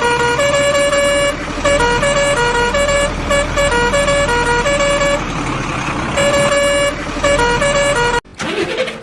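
Electronic tune of buzzy, horn-like tones stepping back and forth between two pitches, cutting off suddenly near the end.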